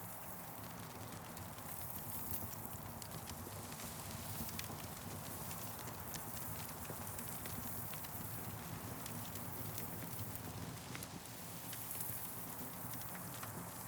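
Wood campfire crackling: scattered sharp pops and snaps over a steady hiss and low rumble of the burning fire.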